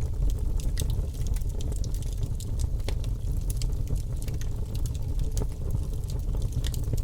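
Wood logs burning in a fireplace, crackling: a steady low rumble with frequent sharp, irregular crackles.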